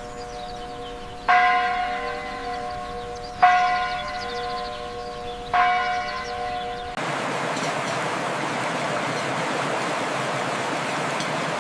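A large bell tolling three times, about two seconds apart, each strike ringing on and slowly fading. About seven seconds in it cuts off abruptly, and a steady, even rushing noise follows.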